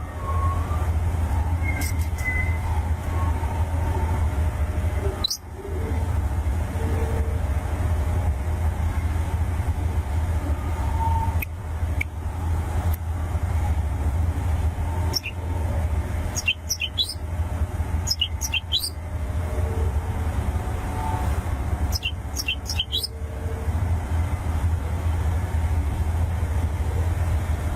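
Long-tailed shrike (pentet) giving short, high, sharp chirps in scattered clusters over a steady low hum.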